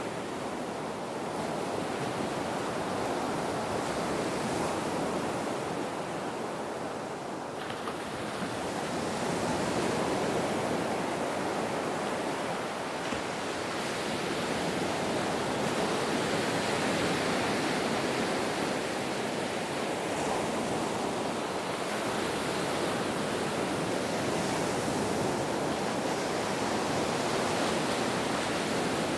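Ocean waves breaking and washing on a shore, a continuous surf hiss that swells and eases slowly every several seconds.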